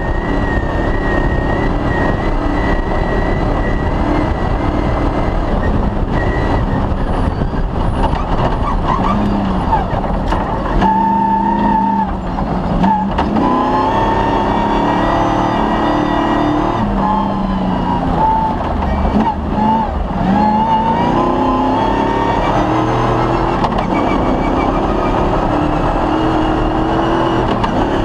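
Cross-country rally car engine running hard, its pitch rising and falling over and over as it revs up and drops back, with a few sharp knocks in the first half.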